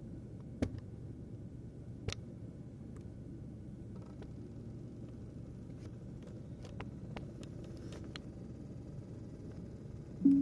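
Laptop CPU fan running with a steady low rumble, with a few faint clicks over it; the owner describes the fan as spinning too slowly, too loud and vibrating. A loud pitched note sounds just before the end as music starts.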